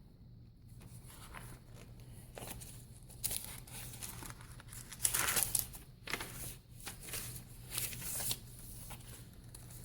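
Paper rustling and crinkling as the pages and paper inserts of a handmade junk journal are turned and handled, with the loudest rustles about five seconds in and again near the end.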